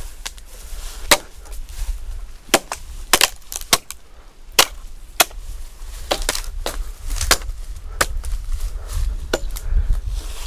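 Chopping blows into dry willow wood: about a dozen sharp, irregularly spaced strikes.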